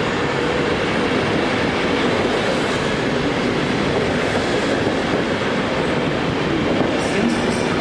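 Passenger coaches of a departing express train rolling past close by: a loud, steady rumble of wheels on the rails.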